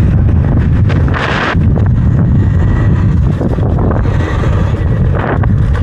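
Heavy wind buffeting on the microphone of a rider on an electric dirt bike, a loud, steady low rumble, with a brief hiss about a second in.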